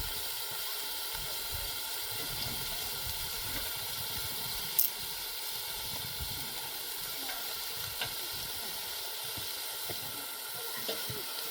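Food frying in a pan: a steady sizzle with scattered small pops, and one sharper crack about five seconds in.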